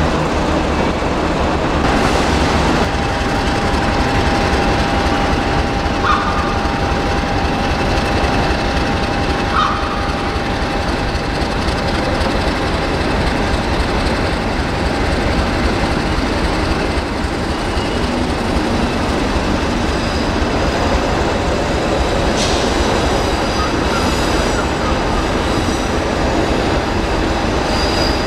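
Network Rail rail grinding train rolling past at close range: steady rumble of wheels on rail and machinery. A steady high-pitched whine runs through much of the first two-thirds, with short squeals about six and ten seconds in.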